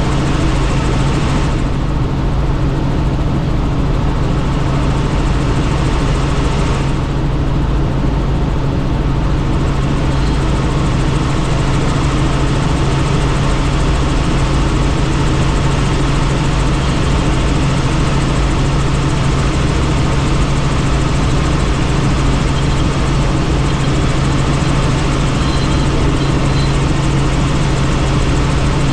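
Helicopter in flight heard from on board, a loud steady drone of engine and rotor with a strong low hum underneath.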